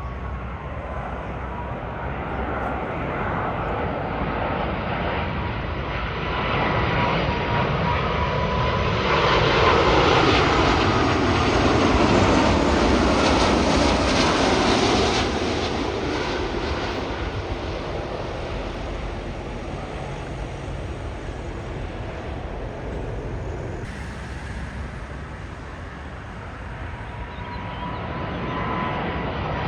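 Large jet airliner on landing approach passing close by. The engine noise swells to its loudest about halfway through, with a whine that sweeps down in pitch as it goes past, then fades away.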